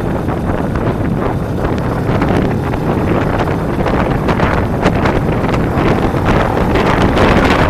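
Heavy wind buffeting on the microphone of a camera riding on a moving motorcycle, as a dense rushing noise that grows a little louder near the end.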